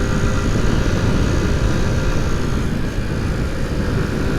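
Honda C90's small single-cylinder four-stroke engine running steadily under load as the bike is ridden at speed, heard from the rider's seat.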